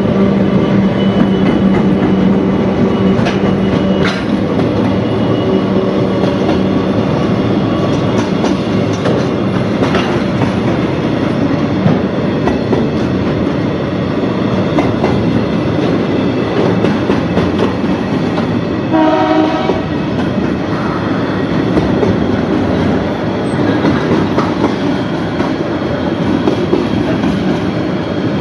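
Pacific National diesel-electric freight locomotive PN013 passes with a steady engine drone that fades over the first third. A long train of container wagons then rolls by, rumbling, with clacking over the rail joints. About two-thirds through, a horn sounds for about a second.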